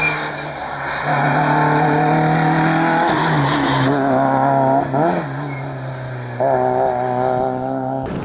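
Rally car engine running hard at high revs as it passes on the stage, with a short lift and a quick throttle blip about five seconds in, then back on the power. The sound cuts off abruptly near the end.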